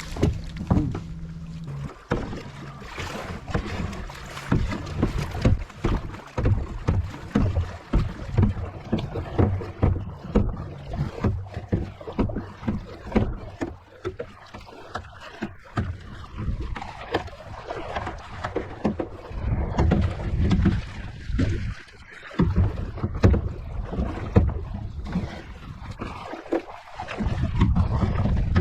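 Kayak out on a lake: paddle strokes splashing and water slapping against the hull in an uneven run of knocks and splashes, with wind buffeting the microphone.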